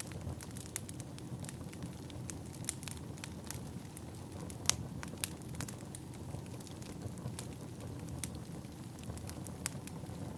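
Firewood burning, with irregular sharp crackles and pops over a steady low rumble of the flames; one pop stands out just under five seconds in.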